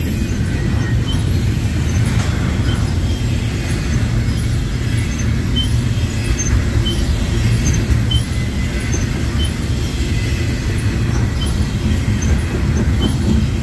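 Norfolk Southern freight train rolling past: a steady, heavy rumble of wheels and cars, with faint high ticks recurring every half second or so.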